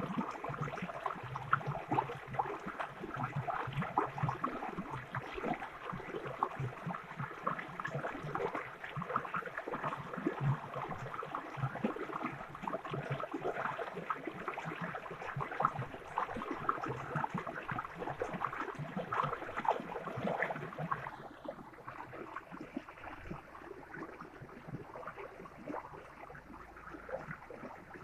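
Stream water babbling and gurgling in a dense, irregular patter. About three quarters of the way through it turns quieter and duller.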